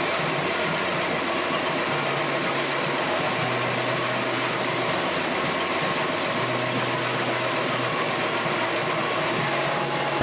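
Manual metal lathe running steadily, a continuous machine hum with several steady tones.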